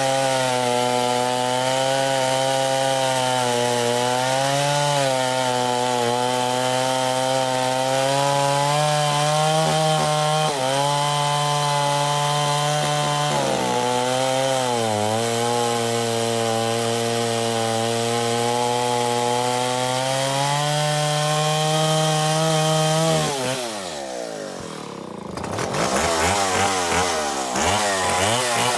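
Stihl Contra Lightning chainsaw, its two-stroke engine bored out to 137 cc, running hard at high revs with a steady note. The pitch dips briefly several times. Near the end the revs fall sharply, the saw goes quieter for a moment, then revs climb back up.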